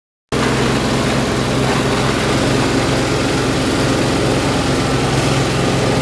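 Leaf and small-twig chopping machine running steadily, a loud even mechanical drone with a dense hiss. It cuts in abruptly just after the start.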